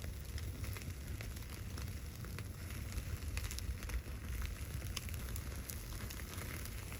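Wood fire crackling, with frequent sharp pops over a steady low rumble.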